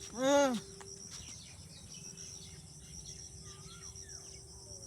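Steady high insect buzz with a few faint bird chirps. A loud, short call rising and falling in pitch sounds once right at the start.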